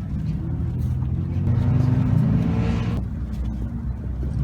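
Straight-piped engine exhaust rumbling low, then revving: the note climbs in pitch and grows louder from about a second and a half in, and drops away suddenly about a second later.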